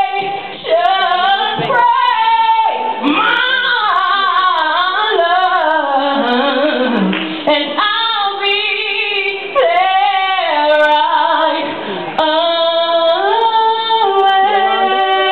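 A woman singing solo, with long held notes and runs that glide up and down in pitch.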